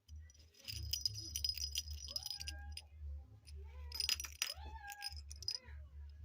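Metallic jingling and rattling, like keys or small bells being shaken, over a steady low rumble.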